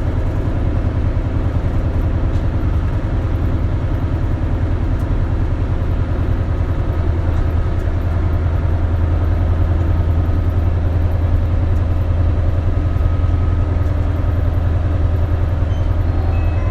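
Isuzu Erga (KL-LV280L1) route bus's diesel engine running steadily with an even low hum, heard from inside the cabin.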